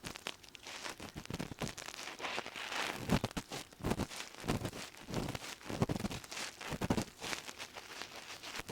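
Ear pick scraping and rustling inside a binaural microphone's ear canal, with dry crackles and soft thuds: close-up ear-cleaning sound, the gritty, crackling scrape of earwax being worked loose deep in the ear.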